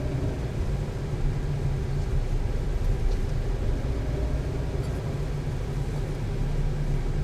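Steady engine and road rumble of a moving vehicle, picked up by a dashboard camera.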